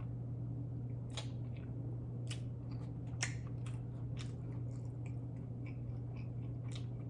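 Close-miked chewing and biting of a cheeseburger-and-fries meal: irregular sharp mouth smacks and crunches, the strongest about three seconds in, over a steady low hum.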